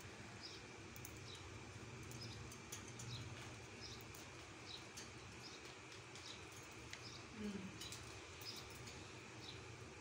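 Faint, scattered short high chirps from birds, a few each second, over a low steady hum, with one brief low sliding sound about seven and a half seconds in.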